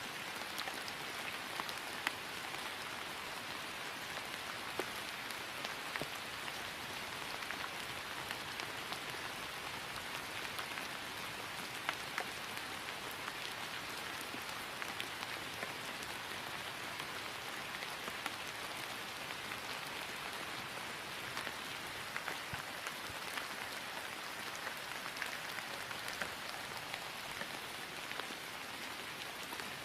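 Steady rain falling on grass, an even patter with occasional distinct drops.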